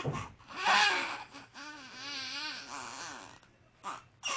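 A baby fussing and crying: a short loud cry about a second in, then a longer, quieter wavering wail that stops a little after three seconds.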